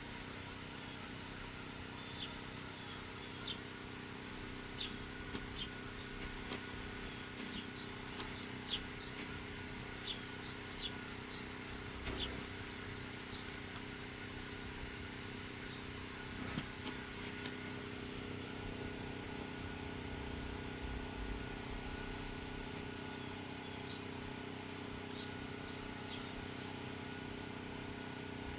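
Steady mechanical drone of a machine running in the background, taken to be a compressor, holding several steady tones, with scattered short, sharp high clicks over it, most of them in the first two-thirds.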